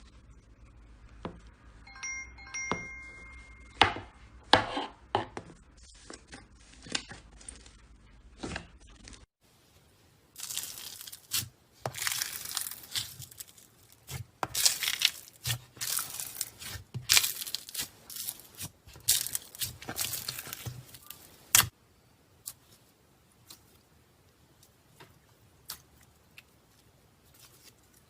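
Slime being squeezed, poked and stretched by hand, giving sharp sticky clicks and pops, with a short faint tone about two seconds in. After a cut there is denser, louder crackling and popping for about twelve seconds, then scattered soft clicks.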